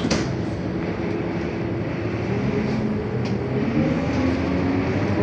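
Scania K230UB city bus's diesel engine running under way, its pitch rising from about three and a half seconds in as the bus speeds up. A sharp click at the start and another about three seconds in.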